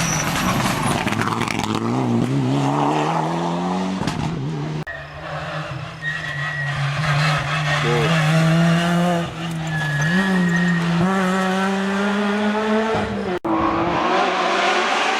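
Rally car engine at high revs, its pitch climbing, then holding high with small steps up and down through gear changes, with tyre squeal. It breaks off suddenly about two seconds before the end.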